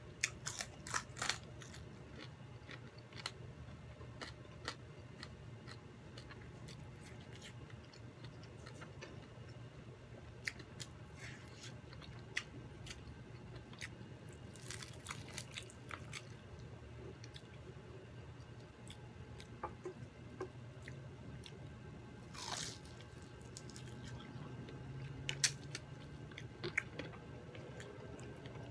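Close-miked eating of crispy deep-fried chicken: chewing and crunching of the fried skin, with scattered sharp crackles. Near the middle, the chicken is torn apart by hand. A faint steady low hum runs underneath.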